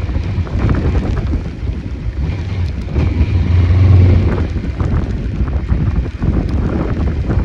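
Wind buffeting the microphone of a moving motorcycle, a loud low rumble that swells for a moment about halfway through, with the motorcycle's engine and road noise running underneath.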